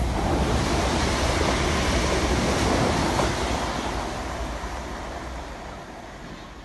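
Class 450 Desiro electric multiple unit passing close by and running away down the line: a loud rumble of wheels on rail for about three seconds, then fading as it recedes.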